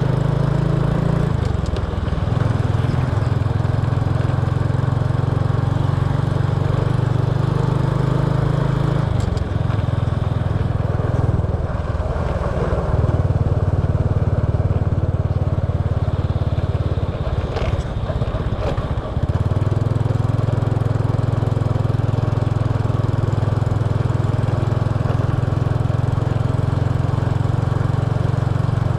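Small motorbike's engine running under way, heard from the bike itself, with road and wind noise. Its note shifts a few times in the first two-thirds, then holds steady.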